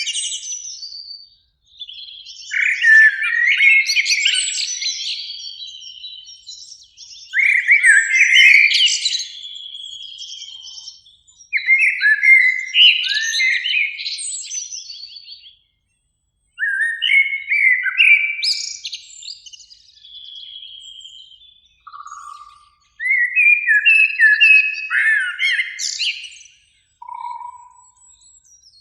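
Eurasian blackbird singing: a run of about six phrases, each a low fluting warble that breaks into a high, squeaky twitter, with short pauses between phrases.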